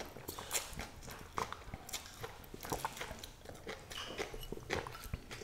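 Faint eating sounds of stir-fried egg noodles being chewed: small irregular wet clicks and smacks.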